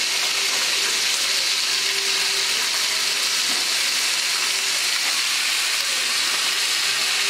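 Small whole red onions frying in hot oil in a nonstick pan: a steady, even sizzle.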